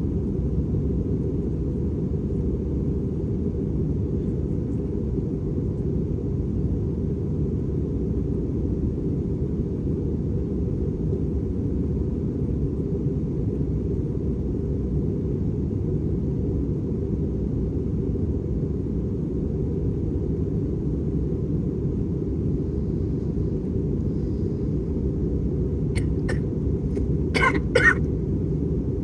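Steady low rumble inside an Airbus A320's cabin in flight, from its engines and the airflow. Near the end a person coughs several times in quick succession, the last two coughs the loudest.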